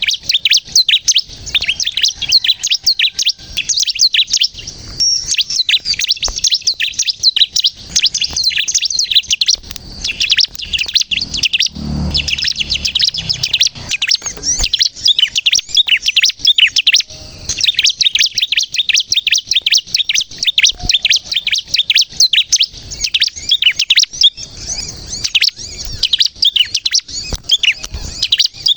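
Bar-winged prinia (ciblek) singing hard and without pause: a rapid, unbroken stream of high chirps and trills. A dull low thump comes about twelve seconds in.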